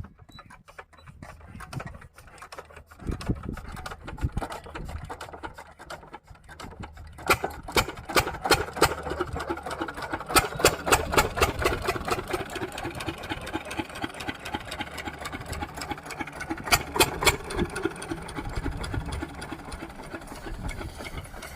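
12-horsepower diesel pumpset engine starting up about three seconds in and running with a fast, even knocking beat, louder from about seven seconds in.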